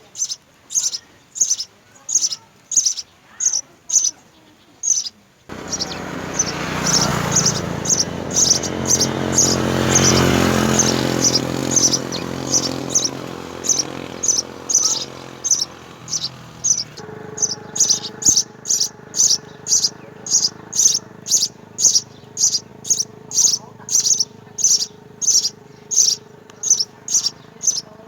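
House sparrow chirping over and over, about two to three short, high chirps a second. A louder low noise swells up about five seconds in and fades away by the middle, leaving a faint steady hum under the chirps.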